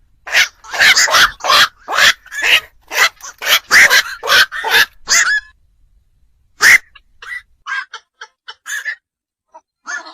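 Black-crowned night heron calls: short harsh croaks repeated quickly, about two or three a second, for the first five seconds, then after a short pause one loud croak and several fainter, scattered ones.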